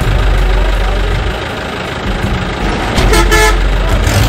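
Low, steady vehicle-engine rumble, with a short horn toot about three seconds in that lasts about half a second.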